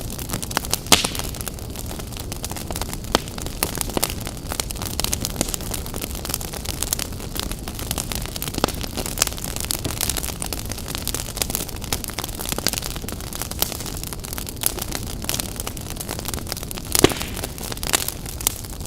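Wood campfire burning: a steady hiss with frequent crackles and pops, and a few louder sharp pops about a second in and near the end.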